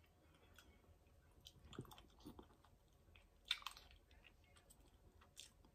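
Faint, close-miked chewing and mouth sounds of someone eating mussels from the shell, with scattered small clicks and one sharper smack about three and a half seconds in.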